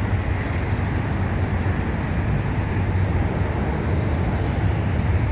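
Double-stack intermodal freight train's cars rolling past on the rails, a steady, unbroken rolling noise heaviest in the low end.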